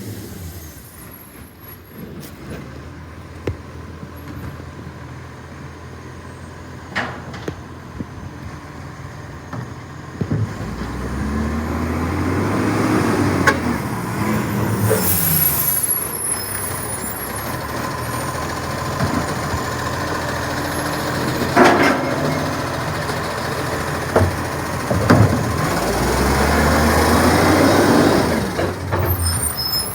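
Recycling garbage truck's diesel engine running, twice revving up and back down. A loud air-brake hiss comes about halfway through, with a few sharp knocks.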